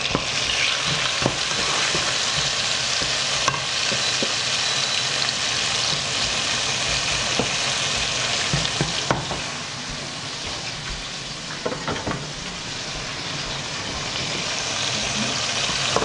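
Onion, garlic and tomato sautéing in oil in a nonstick frying pan: a steady sizzle, with a slotted spatula stirring and scraping through them and now and then clicking against the pan. The sizzle eases a little for a few seconds past the middle, then builds again.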